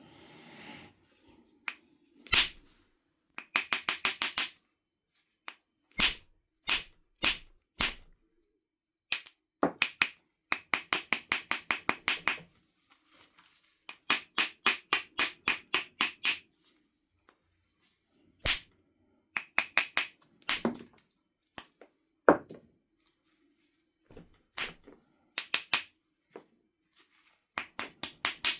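A Knife River flint biface being knapped: runs of quick, light clicking strokes of tool on stone, broken by a few single sharp strikes, the loudest about three-quarters of the way through.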